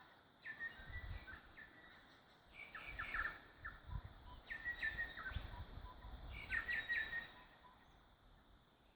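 Bellbirds calling: clusters of short, clear chirping notes that come again every second or two, over a faint low rumble.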